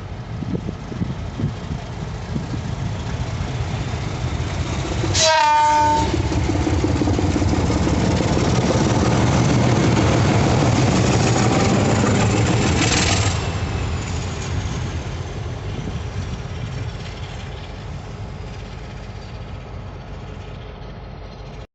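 ALCO RSD16 diesel locomotive gives a short horn blast about five seconds in, then its engine runs hard and loud for several seconds with a whine that climbs and then falls away as the engine eases back and the sound fades.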